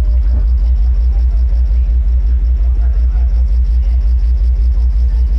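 Sound-system bass speakers playing a loud, deep, pulsing bass tone, several even pulses a second with almost nothing above it, as the system's bass is checked.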